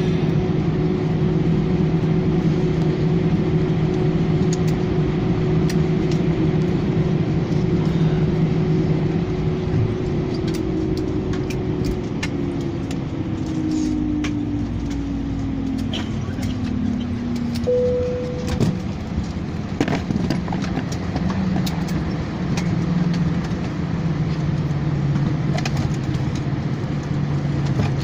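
Airbus A318 cabin at the gate: the steady hum of the jet engines winds down in falling tones about halfway through. A short single chime sounds soon after, followed by scattered clicks, and a lower steady hum carries on to the end.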